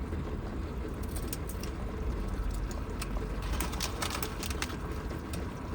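Rain falling on the roof of a van, heard from inside: a steady low rumble with a scatter of irregular sharp taps.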